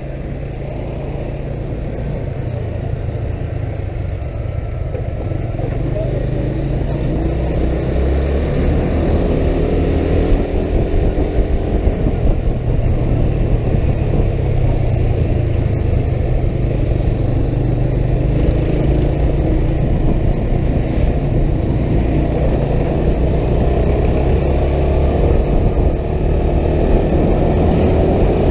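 A motor vehicle running under way, a heavy low rumble of engine and road noise that grows louder over the first ten seconds or so and then holds steady, with faint shifts in engine pitch.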